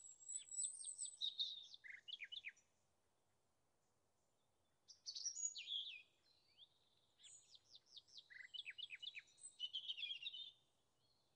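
Songbird singing in two long phrases of quick, high, down-slurred notes, one at the start and a longer one from about five seconds in, with a quiet pause between them.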